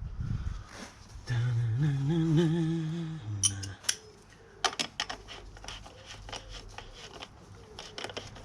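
A man hums a short wavering tune for about two seconds. After that come a series of light, irregular metallic clicks and taps from a spanner working on the motorcycle's chain adjuster.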